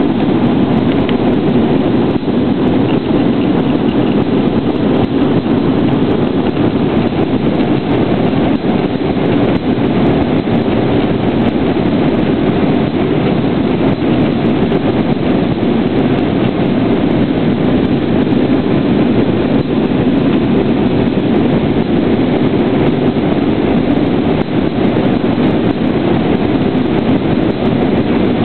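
Steady engine and rushing-air noise inside the cabin of an Airbus A320 in flight, a loud, even drone without a break.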